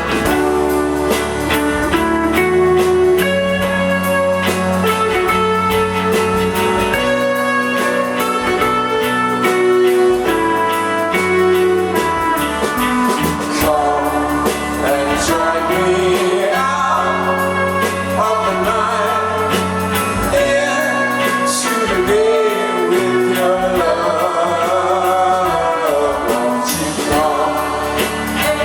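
Live rock band playing loudly: electric guitars, bass and drums on an instrumental stretch of a song, with bending, wavering lead lines in the second half.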